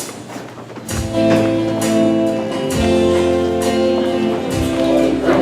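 Instrumental music starts about a second in: a strummed guitar over held chords, a song's introduction.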